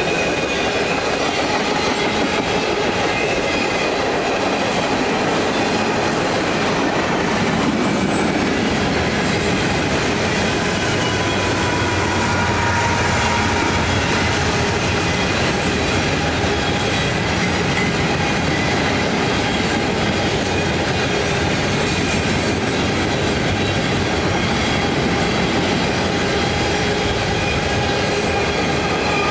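Long freight train rolling steadily past over the crossing, its wheels clacking over the rail joints. A mid-train CSX diesel locomotive passes about halfway through and adds a low engine drone.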